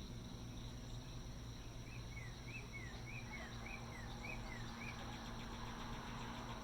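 Evening insect chorus with a steady low machinery hum underneath. From about two to five seconds in, a bird gives a run of about ten quick notes that alternately rise and fall. Near the end a fast pulsing insect trill grows stronger.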